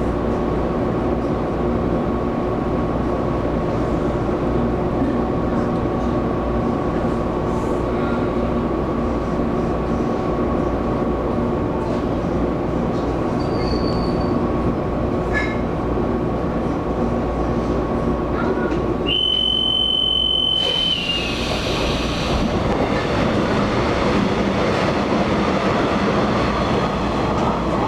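Taiwan Railways EMU700 electric multiple unit running at speed, heard from inside the passenger car: a steady rumble of wheels on rail with a constant motor tone. About two-thirds of the way through, a high steady tone sounds for about two seconds.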